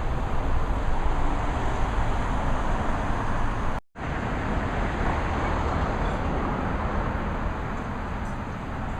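Steady rumbling noise of a moving vehicle, cut off for an instant about four seconds in.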